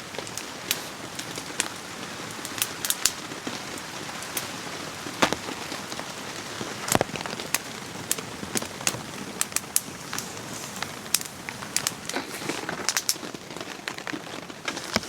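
Steady rain falling, with many scattered sharp ticks and pops from drops striking close by.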